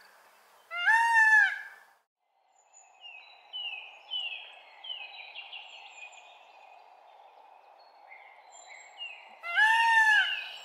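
Loud bird calls, each a single rising-then-falling cry about a second long, one about a second in and another near the end. Between them, smaller birds chirp faintly over a steady soft hiss.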